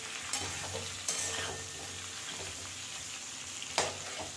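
Raw green mango pieces sizzling in hot oil in a metal wok while a spatula stirs them, scraping and knocking against the pan a few times, the loudest knock a little before the end. The mango is nearly done frying.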